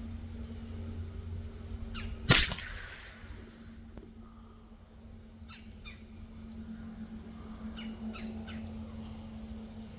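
A single .22LR rifle shot from a Rock Island M14Y about two seconds in, with a brief echo. Birds chirp faintly over a steady outdoor background.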